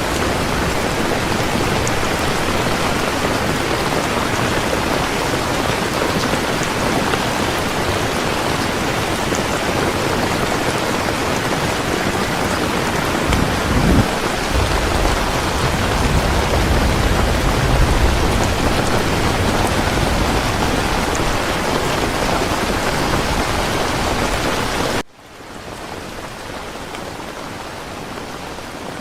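Steady, heavy rain falling, with a low rumble of distant thunder about halfway through. About 25 seconds in, the sound cuts off abruptly and is replaced by quieter rain.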